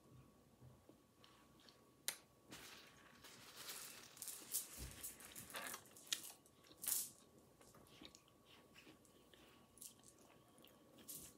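Faint close-up chewing of a mouthful of gyro: a run of soft clicking and smacking mouth sounds, busiest from about two seconds in until about seven seconds in.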